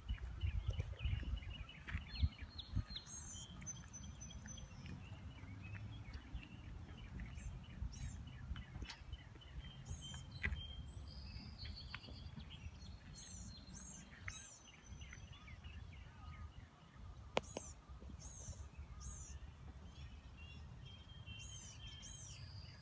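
Several songbirds chirping, repeated short high notes that sweep downward, over a steady low rumble. A sharp click sounds near the middle and another, louder, a little later.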